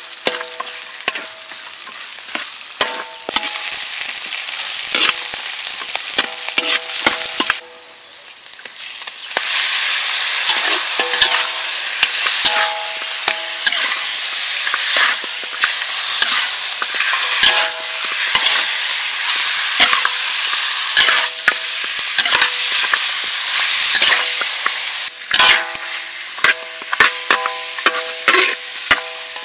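Chopped garlic, shallots, chili paste and whole spices sizzling in hot oil in a metal wok, with a metal spatula scraping and clinking against the pan so that it rings briefly. About nine seconds in, after a short quieter spell, raw pork ribs are in the oil and the sizzle turns louder as they are stirred and fried.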